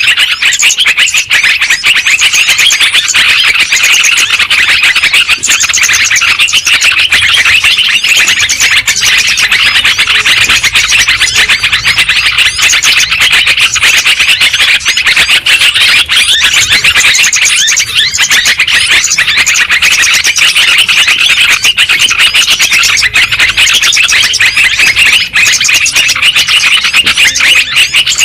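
Yellow-vented bulbuls (trucukan) calling and chattering all at once, a loud, dense, unbroken chorus of many short overlapping bright notes, as used for a bulbul lure recording.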